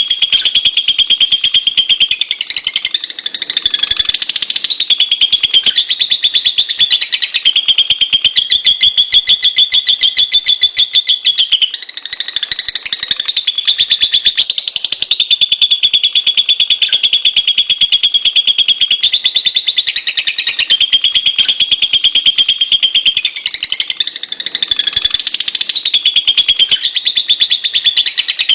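Lovebird chattering shrilly without a break, a very rapid run of high notes repeated many times a second, its pattern shifting every few seconds.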